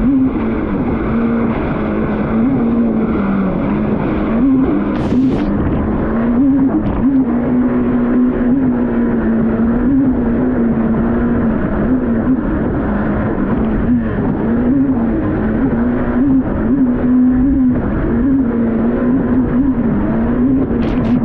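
Yamaha VX Cruiser H.O. WaveRunner engine running steadily at high speed, its pitch rising and dipping slightly now and then. A steady rush of noise runs underneath.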